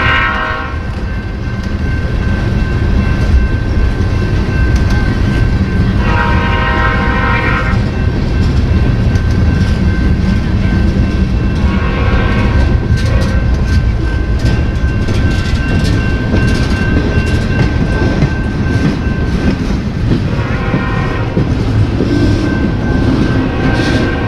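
Diesel freight locomotive horn sounding repeatedly over the steady rumble of a freight train rolling by, with wheel clicks on the rail joints. The longest blast comes about six seconds in, with shorter ones at about twelve and twenty seconds.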